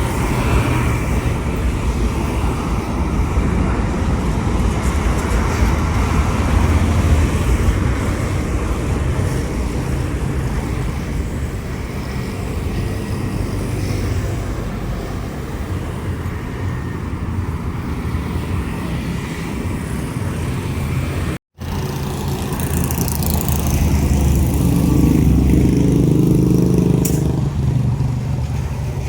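Jet airliner engines rumbling low and steady after takeoff. Two-thirds of the way through the sound cuts out for an instant, then a louder engine hum with a steady low pitch comes in.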